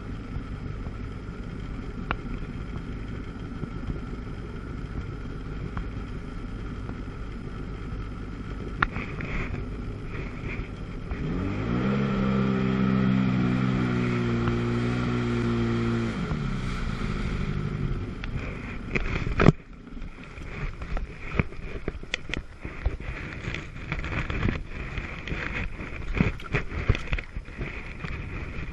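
Two-stroke jet ski engine running on the water, rising to a loud, steady, higher-pitched note for about five seconds partway through, then easing off. A sharp knock follows, and the engine sound drops away to wind and water noise with scattered clicks.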